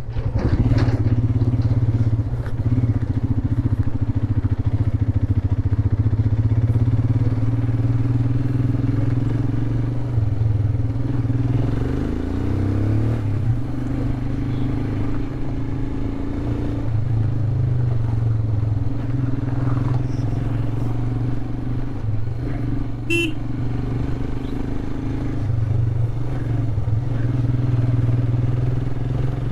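Royal Enfield Himalayan's 411 cc single-cylinder engine running steadily under way. The engine note glides in pitch briefly about twelve seconds in, and there is a short sharp sound about twenty-three seconds in.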